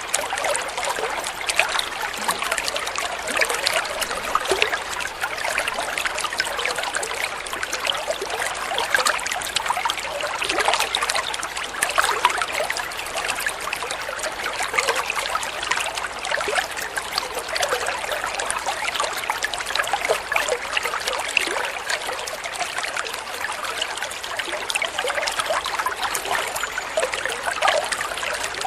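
Water flowing and trickling steadily, with a constant patter of many small splashes.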